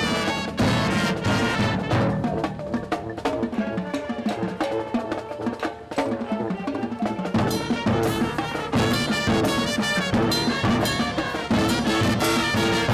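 Marching band playing: brass ensemble with drums and percussion, sharp drum hits through it.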